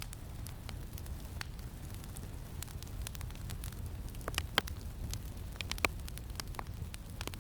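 Campfire crackling, with scattered sharp pops and two louder snaps a little past the middle, over a low steady rumble of wind.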